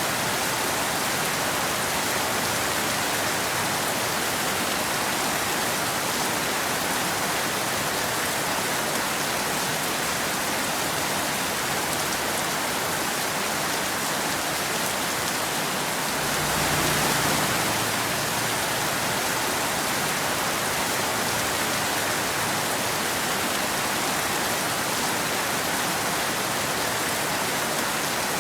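Steady rain falling on a wet road and surrounding forest, an even hiss without thunder, swelling slightly about two-thirds of the way through.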